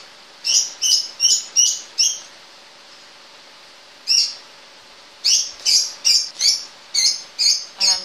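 A bird chirping over and over: short, high, clear chirps in quick runs of two or three a second, with a pause of a couple of seconds partway through.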